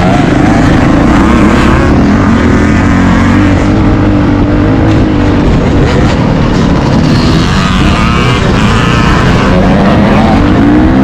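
Motocross dirt bike engine running hard at high revs, its pitch climbing with the throttle about a second in and again near the end.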